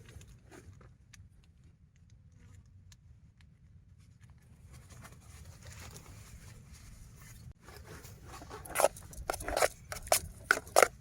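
Things being handled: faint small clicks over a low steady rumble, then a quick run of loud sharp clacks and knocks in the last few seconds.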